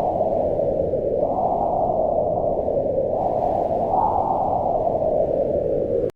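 Wind blowing as a steady low rush, swelling in gusts about a second in and again around four seconds. It cuts out for an instant near the end.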